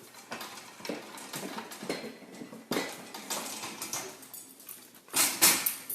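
Irregular light knocks and clattering, like small hard objects being bumped, with a louder rushing burst near the end.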